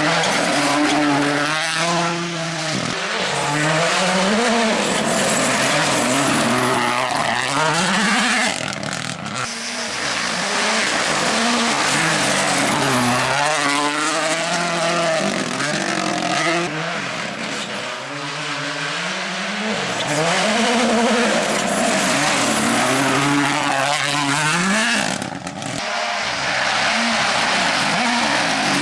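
Rally car engine running hard, its pitch climbing and dropping again and again as the driver shifts gears and lifts off. The level briefly dips a little about eight and a half seconds in and again near the end.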